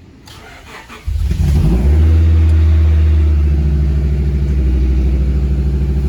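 A car engine, an Acura, jump-started on a dead battery, starts about a second in: its pitch rises briefly, then it settles into a steady idle.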